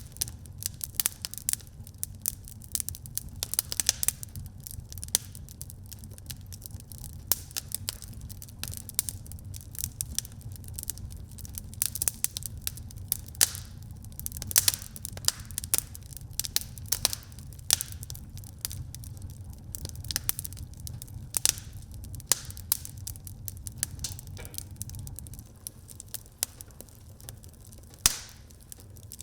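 Wood fire burning in a fireplace, with dense irregular crackling and occasional louder pops over a steady low rumble of the flames.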